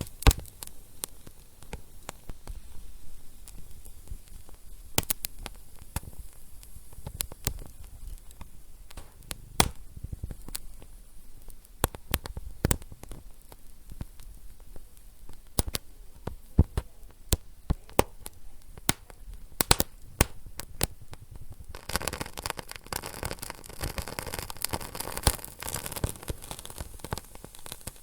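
Wood fire crackling in a fireplace, with irregular sharp pops and snaps of varying loudness. About 22 seconds in, a steadier hiss joins the crackle.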